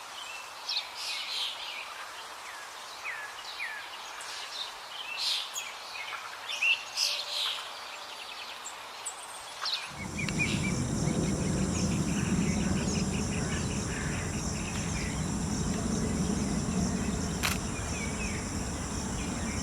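Several wild birds chirping and calling in short notes. About halfway through, the sound cuts to a steady high insect trilling over a louder low rumbling noise.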